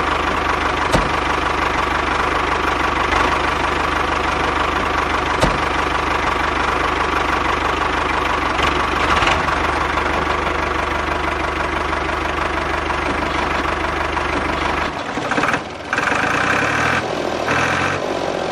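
Tractor engine running steadily, with a few sharp clicks in the first seconds and a change in its sound about fifteen seconds in.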